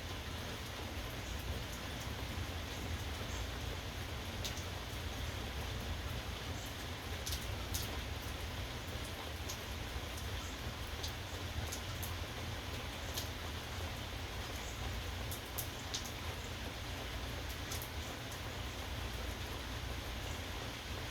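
Steady rain, with scattered sharp drop ticks close by and a constant low rumble underneath.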